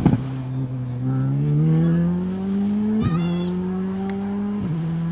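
Rally car engine accelerating hard, its pitch climbing steadily and then dropping at two upshifts, about three seconds in and again near the end. A brief high chirp sounds at the first gear change.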